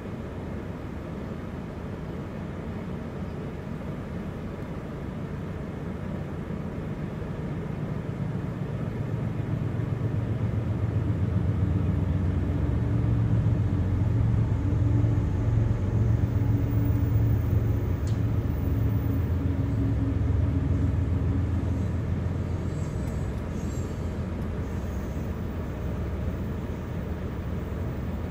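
Two BNSF ES44AC diesel locomotives approaching and passing with a low engine drone that grows louder, peaks as they go by near the middle, then fades. It gives way to the steady rumble and rail noise of loaded coal hoppers rolling past.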